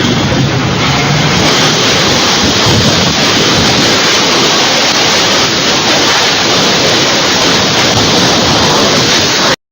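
Storm wind during a tornado, a loud steady rush buffeting the microphone. It cuts off suddenly near the end.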